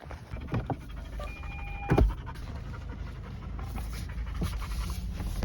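A dog panting over a steady low rumble. A brief steady beep sounds just before a single loud thump about two seconds in.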